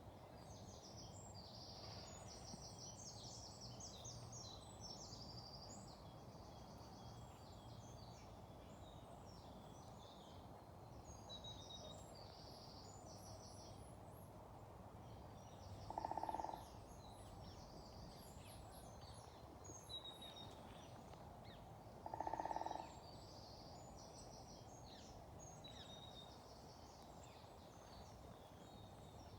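Faint woodland birdsong: several small birds singing short high chirps and trills over a low steady background hiss. Twice, about six seconds apart, a louder and lower call of about half a second stands out.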